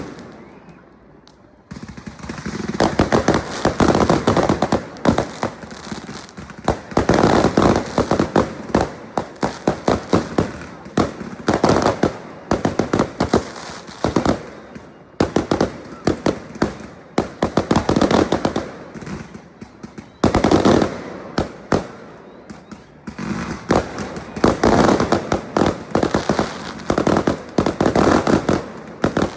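Fireworks going off in rapid, dense runs of sharp bangs and crackles, with a short lull about a second in and brief let-ups around two-thirds of the way through.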